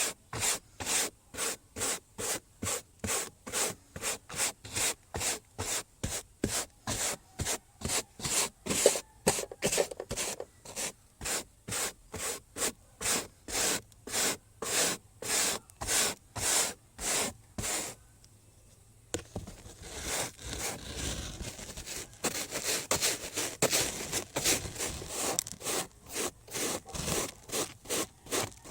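Hand scrubbing, rubbing back and forth in even strokes about two a second. After a short pause around eighteen seconds in, it resumes faster and more irregularly.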